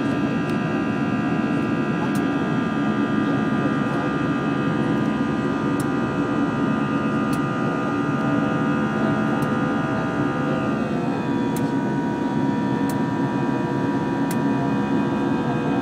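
Airbus A320 cabin noise in the climb: a steady rush of engine and airflow with several high engine tones above it. The tones drop slightly in pitch about eleven seconds in.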